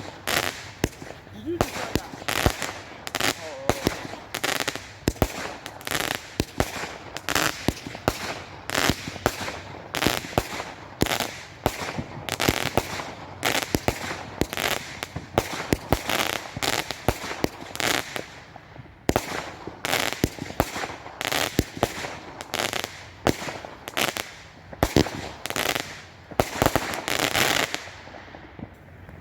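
A 50-shot repeater cake firework firing: a long, rapid run of loud bangs, about two a second, that stops about a second before the end.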